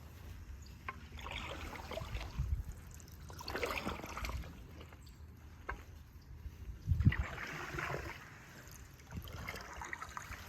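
Canoe paddles dipping and pulling through the water in strokes every two to three seconds, with water trickling off the blades. Two low thumps, the louder about seven seconds in.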